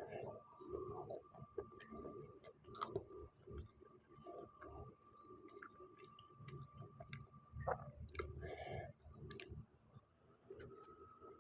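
Close-miked chewing of a mouthful of spicy noodles and meatball, faint, with irregular small wet clicks and mouth noises. There is a short hiss about eight and a half seconds in.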